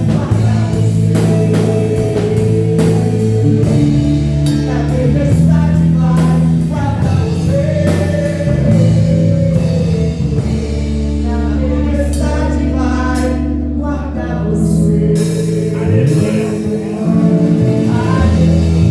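Live gospel worship song: a woman singing over a band with drum kit and guitar. The drums drop out for a few seconds past the middle, then come back in with a cymbal crash.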